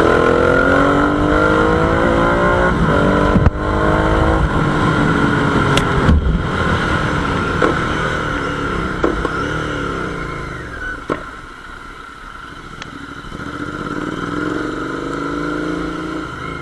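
Royal Enfield Interceptor 650's 648 cc parallel-twin running through an aftermarket SS Moto full-system exhaust, revving: the pitch climbs over the first few seconds, then rises and falls repeatedly. It fades somewhat around the middle and builds again near the end.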